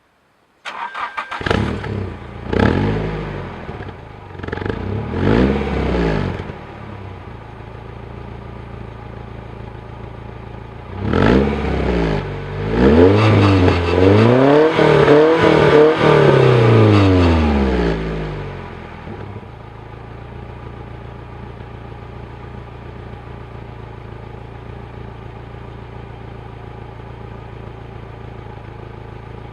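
Nissan 180SX's naturally aspirated SR20DE inline-four, breathing through an aftermarket exhaust muffler, starts up and is blipped four times, then idles. About eleven seconds in it is revved repeatedly for several seconds before dropping back to a steady idle.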